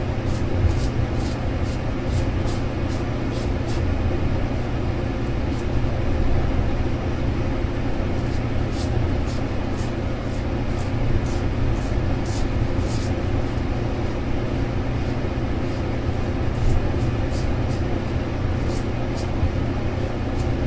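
Short, repeated strokes of a brass safety razor scraping across lathered skin and cutting stubble, coming irregularly one to three times a second. A steady low rumble runs underneath.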